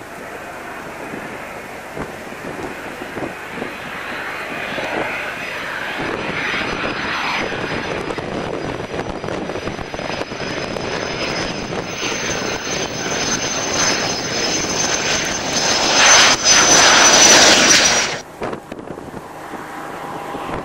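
Turbine aircraft engine noise building as an aircraft draws close, with a high steady whine over a broad rush. It is loudest a few seconds before the end, then drops away suddenly.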